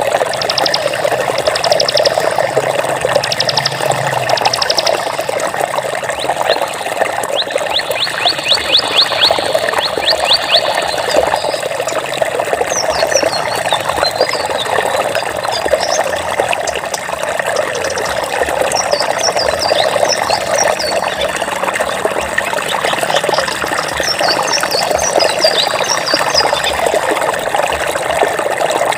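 Steady flowing water, a constant rushing wash. High, fast trills sound over it for the first ten seconds or so, then give way to scattered short high chirps.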